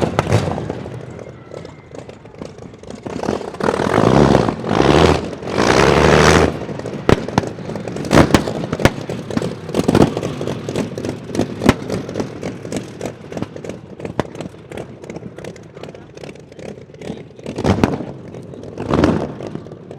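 27-litre V12 engine of the land speed record car BABS, revved in loud bursts about three to six seconds in, with many sharp cracks and clatter through the rest and two shorter swells near the end.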